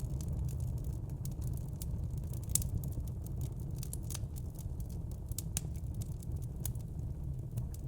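Wood fire crackling: frequent sharp snaps and pops at irregular intervals over a steady low rumble.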